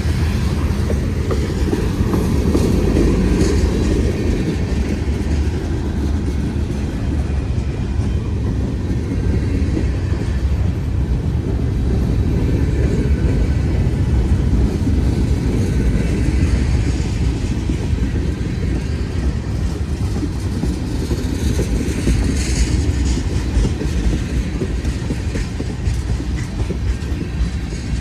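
Freight train rolling slowly past on the main line, a steady low rumble of wheels on rail as it slows to stop.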